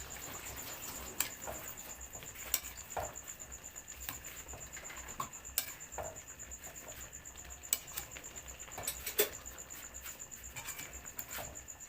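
Scattered light clicks and taps, a few seconds apart, over a steady high-pitched insect trill.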